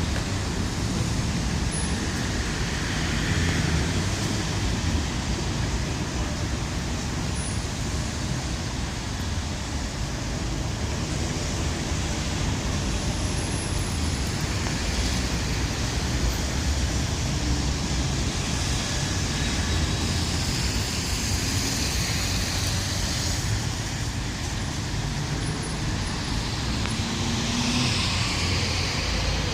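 Steady, even rushing noise with no clear pitch or rhythm, of the kind given off by road traffic, wind or running water.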